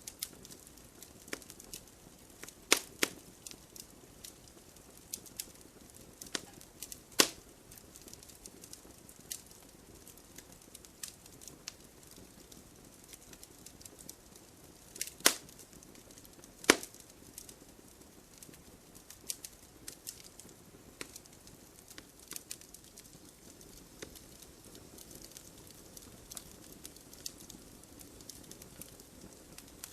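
Wood campfire crackling: irregular sharp pops and snaps of burning firewood, a few much louder than the rest, over a faint low hiss of flame.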